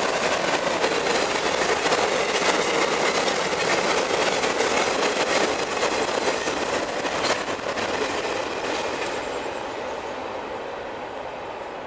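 Freight train boxcars rolling past on the track: a steady noise of wheels on rail that slowly fades over the last few seconds.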